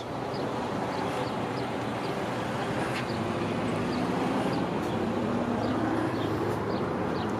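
Big diesel trucks idling steadily, a low even engine rumble.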